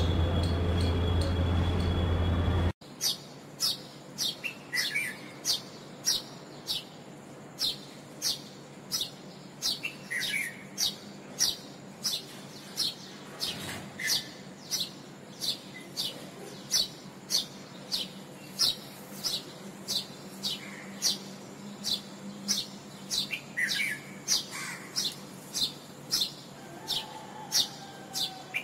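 A bird chirping over and over, short high notes that sweep downward at about two a second, with a few lower calls from another bird now and then. For about the first two and a half seconds a loud steady noise with a low hum drowns it out, then stops abruptly.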